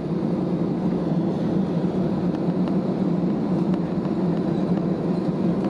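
Steady, even hum of an Airbus A320neo's cabin on the ground after landing, with the aircraft's engines and air systems running.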